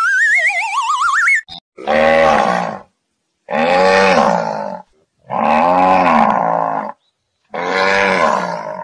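A warbling sound-effect glide rising in pitch, then a zebu bull lowing four times. Each low call lasts about a second or more and rises and falls in pitch.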